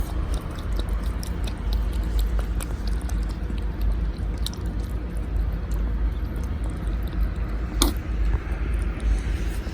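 A cat lapping and chewing: many small wet clicks over a steady low rumble, with one sharper click about eight seconds in.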